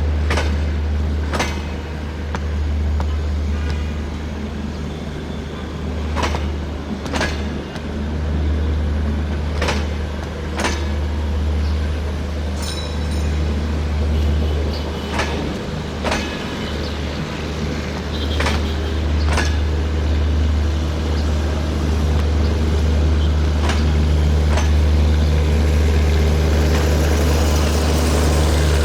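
Passenger coaches of a broad-gauge express train rolling past with a steady low rumble. The wheels clack over the rail joints in pairs about a second apart, a pair every few seconds, as each coach's bogies cross.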